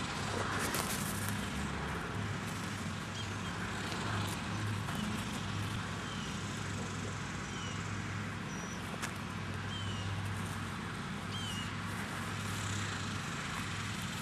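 Open-air ambience: a steady low rumble like distant traffic, with a few short, high bird chirps scattered through it.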